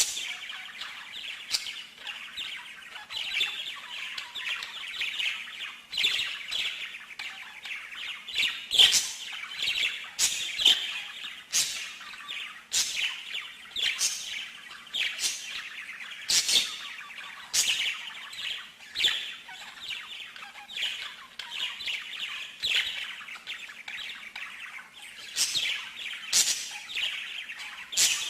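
A songbird singing continuously: a rapid warbling trill, broken by sharp high chirps about once a second.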